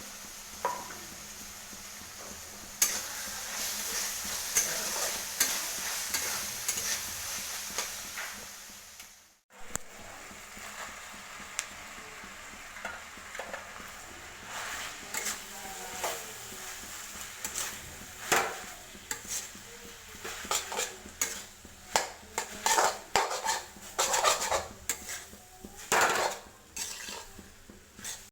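Food sizzling in a frying pan while a spatula stirs it, with a steady frying hiss at first and then sharp clicks and scrapes against the pan that grow busier toward the end.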